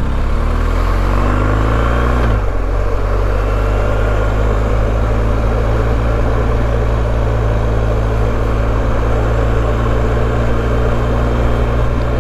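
BMW R1250GS boxer-twin motorcycle engine under way. Its pitch rises for about two seconds, drops suddenly as it shifts gear, then holds steady at cruising speed with a rush of wind noise.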